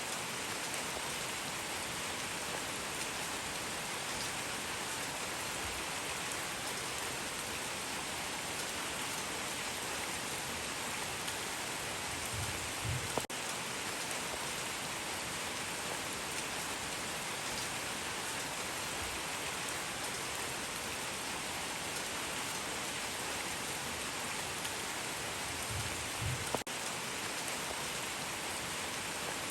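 Steady rain falling, an even hiss of drops, with a brief low thump and click about thirteen seconds in and again near the end.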